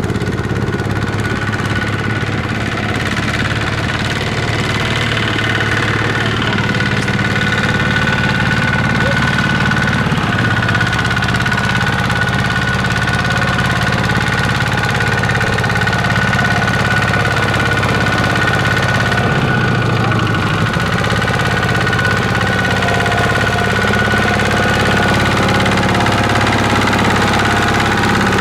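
A farm vehicle's engine running steadily, with a thin, steady high whine above the engine hum.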